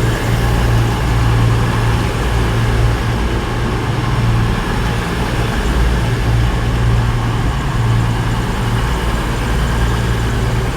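Class 221 Super Voyager diesel-electric train's underfloor diesel engines running with a steady low drone as the train comes into the platform.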